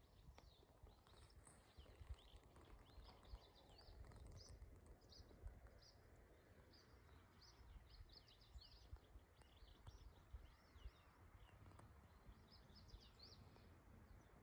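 Faint birdsong: many short, high chirps from small birds, repeating all through, over a low rumble of wind on the microphone.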